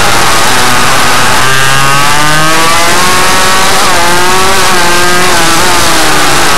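Small motorcycle engine run hard, its pitch climbing and dropping again and again with the throttle. About four seconds in there is a quick drop and climb. The engine sound is very loud and sits over a steady hiss.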